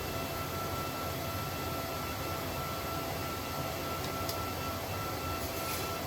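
Steady mechanical drone with a constant high-pitched whine running through it, and a few faint clicks near the end.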